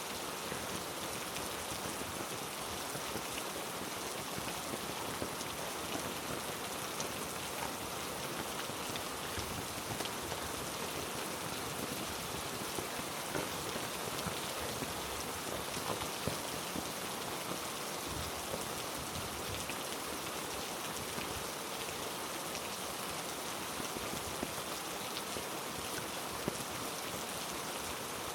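Heavy rain falling steadily on rainforest foliage: a constant hiss dotted with the small ticks of individual drops.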